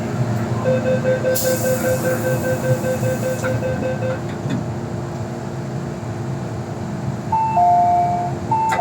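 MTR M-train door-closing warning: a rapid string of even beeps for about three seconds, with a loud burst of hiss partway through, over the steady hum of the train. Near the end a falling two-note chime sounds twice.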